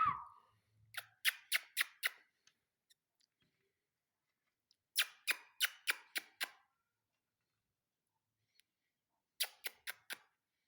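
Three short runs of sharp clicks, five or six quick clicks in each at about four a second: the first about a second in, the second around the middle, the third near the end. A brief falling chirp sounds at the very start.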